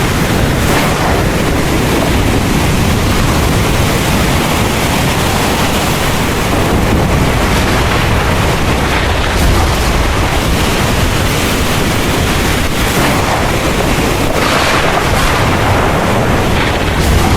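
Heavy rain pouring steadily in a dense, even hiss, with a deep low rumble of thunder running underneath it.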